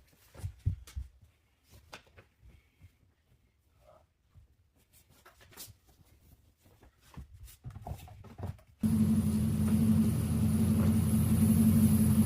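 Faint scattered clicks and knocks, then about nine seconds in a truck engine comes in abruptly and runs steadily with a low rumble.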